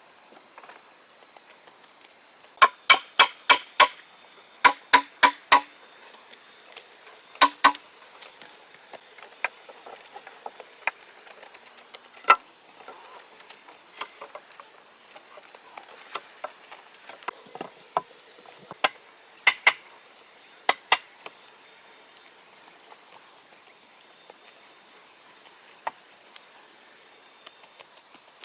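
Hammer blows in quick runs of four or five strikes, followed by scattered single knocks and a couple of pairs.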